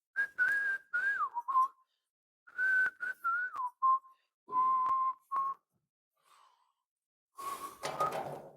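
A person whistling a tune in short phrases, each holding a note and then sliding down to a lower held note.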